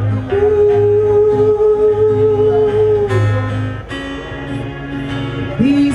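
Live reggae band backing music: a steady bass line and guitar. A single long note is held for about three seconds near the start.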